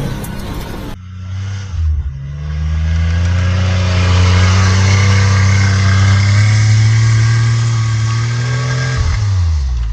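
Supercharged three-cylinder engine of a Japanese kei mini truck pulling through deep snow, its revs climbing slowly for several seconds, holding, then easing off near the end.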